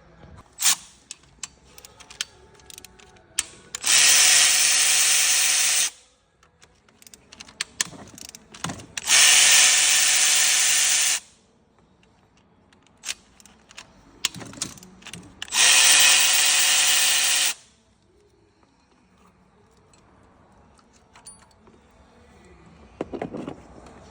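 A power tool run in three bursts of about two seconds each, likely used to clean old RTV sealant off the engine's sealing surfaces. Short clicks and knocks of tools being handled come between the bursts.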